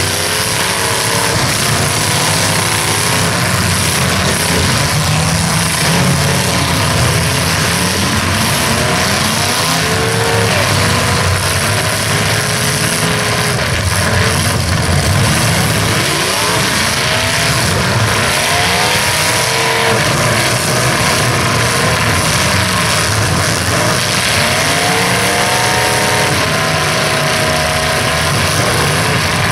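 Several full-size demolition derby car engines running hard at once in a continuous loud roar, their pitch rising and falling as they rev while pushing against each other.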